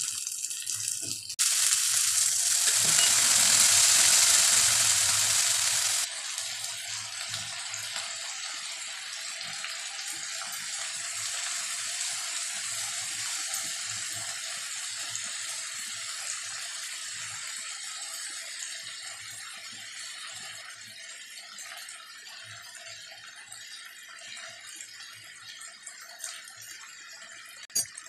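Sliced onions and ginger-garlic paste sizzling in hot oil in a wok, a steady frying hiss. It is loudest for the first few seconds, drops suddenly about six seconds in, then fades slowly.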